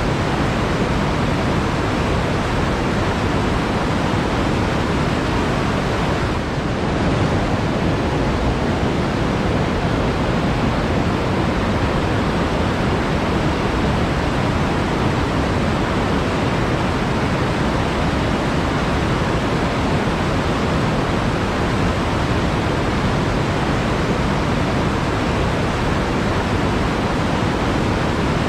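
Flowing water rushing steadily in a dense, even wash of sound, with no distinct splashes.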